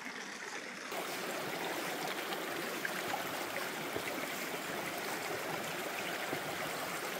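Gorge stream rushing steadily over rocks, a little louder from about a second in.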